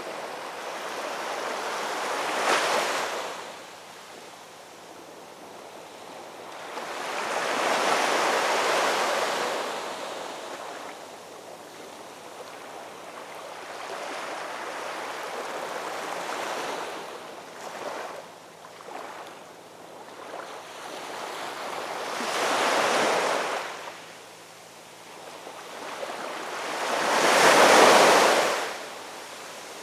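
Ocean waves breaking and washing on a shore, with four slow swells of surf. The last swell, near the end, is the loudest.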